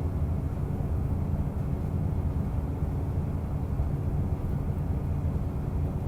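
Diesel railcar on the Rumoi Main Line heard from on board: a steady low engine and running rumble.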